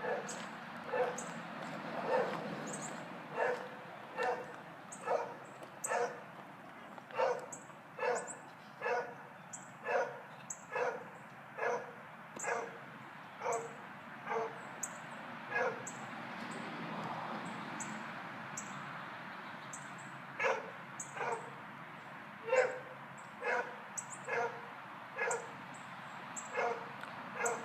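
A dog barking over and over, single barks about once a second, with a break of a few seconds about two-thirds of the way through before it starts again. It is the nonstop barking of a confined dog, which the neighbour takes for a sign of constant stress.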